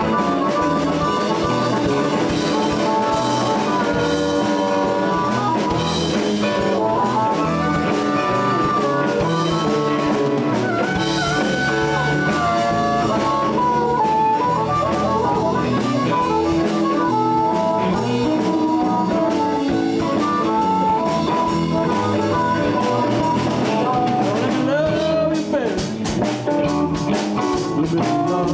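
Live blues band playing an instrumental passage: guitars, electric bass and drum kit, with a lead line bending notes over the groove.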